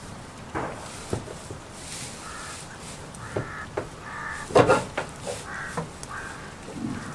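A crow cawing about six times in short, harsh calls, with several sharp knocks among them; the loudest knock comes a little past the middle. Light rain hisses underneath.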